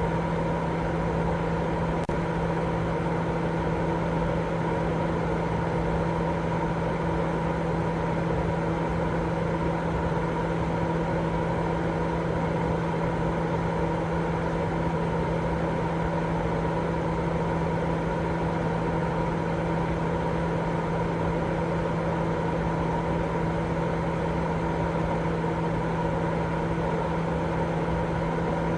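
Continuous sleep white noise: a steady, even rushing drone, heavier in the low and middle range than the top, with a constant low hum running through it and no change.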